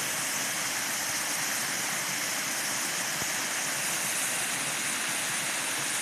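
Small waterfall running low, its water falling and splashing in a steady rushing hiss.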